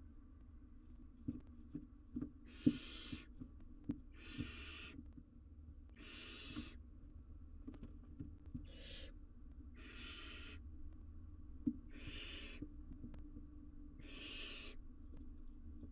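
Barn owl owlet giving its rasping, hissing begging call, about seven times at roughly two-second intervals, each hiss about half a second long. Faint scratches and taps sound between the calls.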